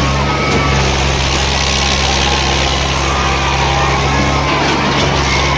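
Diesel tractor engine running at a steady speed, its pitch unchanging throughout.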